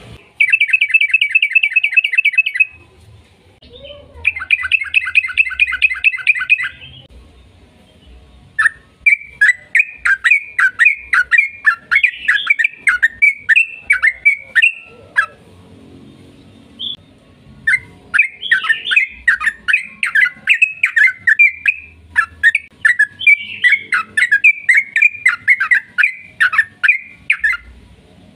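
Yellow-vented bulbul (trucukan) singing. Two fast rattling trills come first, then long runs of quick, bubbly chattering notes with brief pauses between them: the long continuous song ('ropel panjang') that bird keepers play to set other bulbuls singing.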